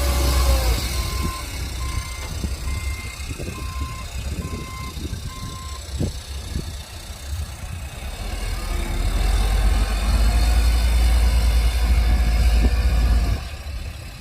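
Heavy earthmoving machine's diesel engine running with a deep rumble, while a reversing alarm beeps steadily and stops about six seconds in. The engine grows louder about eight seconds in, then falls away sharply near the end.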